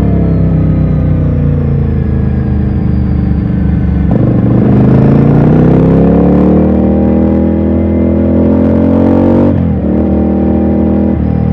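Ducati Scrambler's L-twin engine heard from the rider's seat: the revs fall away for about four seconds, then after a sharp change the engine pulls with its pitch climbing steadily under acceleration until a gear change near ten seconds in, with another shift just before the end.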